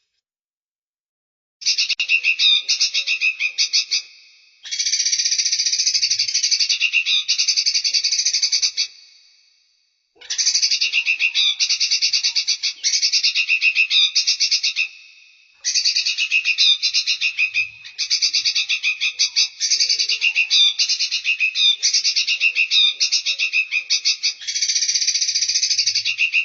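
Recorded songbird song: phrases of fast, high trills a few seconds long, repeated with short gaps between them, each starting abruptly and tailing off.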